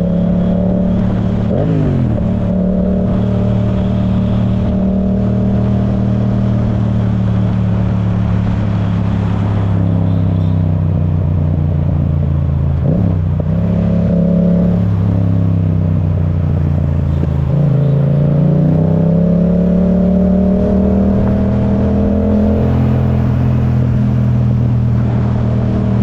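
Yamaha YZF-R7's parallel-twin engine through an Akrapovic full exhaust, running at a steady cruise under load. Its pitch sweeps quickly twice, and about two-thirds through it dips and then climbs steadily as the bike pulls again.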